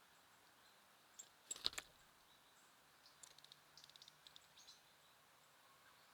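Birds feeding at a bird feeder over a faint background hush: a quick cluster of sharp taps about a second and a half in, then a run of small, fast, high ticks from pecking at seed.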